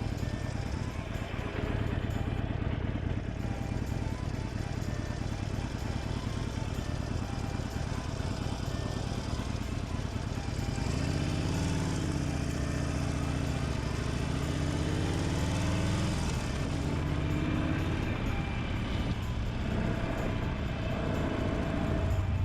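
Harley-Davidson Forty-Eight's air-cooled V-twin running through a Dr. Jekill & Mr. Hyde aftermarket muffler. About halfway through, its note rises and falls several times. Music plays faintly underneath.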